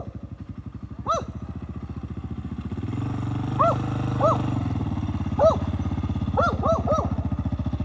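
A vehicle engine running at low revs as it drives up off-road through the forest, growing louder about three seconds in. Short yelping calls sound over it several times, singly and in twos and threes.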